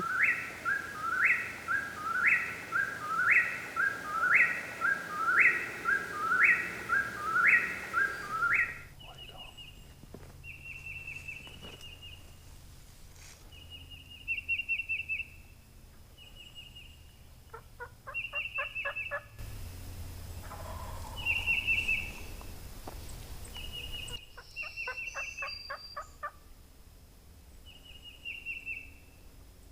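A bird calling from the woods, repeating a loud rising note about eight times in quick succession. Then, from about nine seconds in, fainter songbird chirping with a few short, rapid rattling calls.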